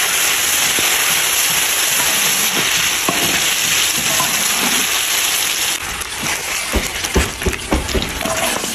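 Food sizzling in a hot wok over a wood fire, a loud steady hiss. About six seconds in the hiss eases and scattered sharp crackles and knocks come through as a metal spatula stirs the bubbling mixture.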